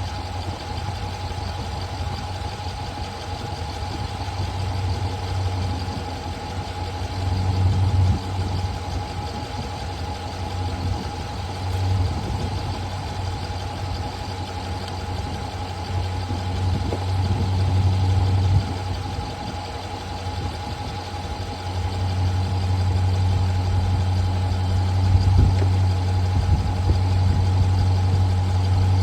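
A car engine idling with a steady low drone. Its level swells briefly a few times and rises over the last several seconds.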